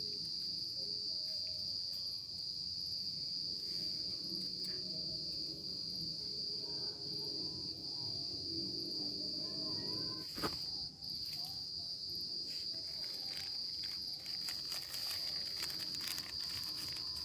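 Steady high-pitched chirring of forest insects, with a few soft low sounds underneath and scattered clicks, one sharp click about ten seconds in and more clicks near the end.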